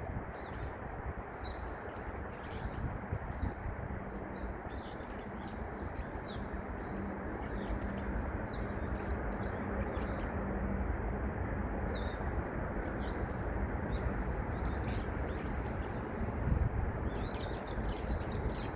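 Small songbirds chirping in many short, quick calls, several at once, over a steady rushing noise.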